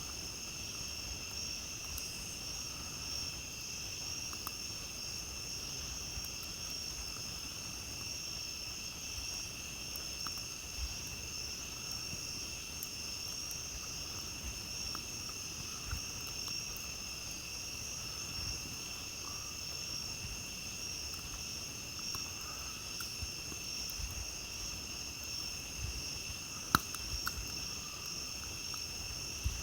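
A chorus of crickets and other night insects trilling steadily and without a break. Over it come scattered small crackles and pops from a campfire, with one sharper pop near the end.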